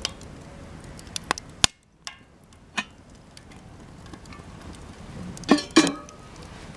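Cedar offcuts burning in a campfire, crackling with a few sharp pops, the loudest just under two seconds in. A little over five seconds in come two short pitched sounds close together.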